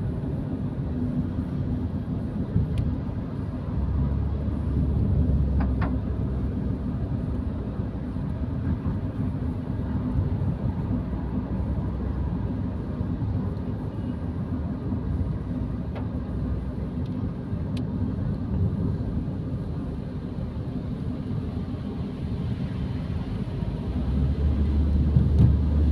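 Car engine and road noise heard from inside the cabin while driving, a steady low rumble that grows louder and deeper near the end.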